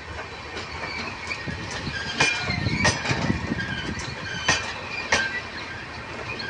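Train rolling past, its wheels clacking irregularly over rail joints, with short high-pitched squeals from wheels on the rails.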